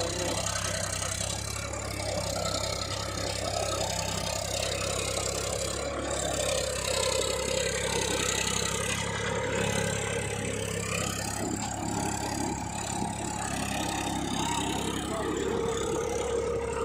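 Tractor diesel engine running steadily, with a mid-pitched tone that drifts up and down.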